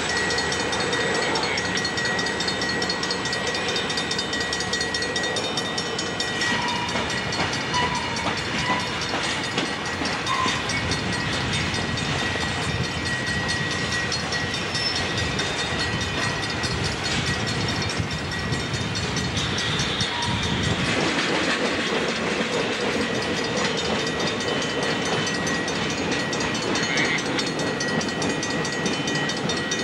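Freight train rolling past at close range: steady noise of steel wheels on the rails that carries on without a break.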